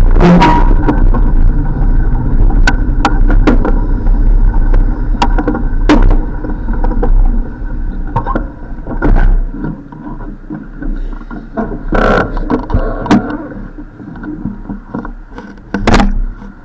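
Riding noise from a bicycle ride: a low wind rumble on the microphone with scattered sharp clicks and knocks. The rumble drops away about ten seconds in.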